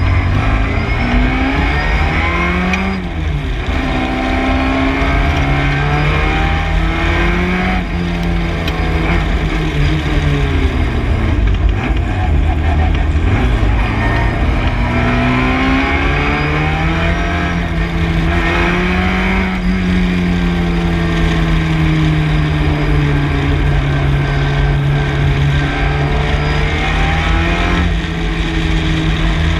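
MG Midget's four-cylinder engine at racing speed, its pitch repeatedly climbing through the revs and then dropping at gear changes or falling away under braking.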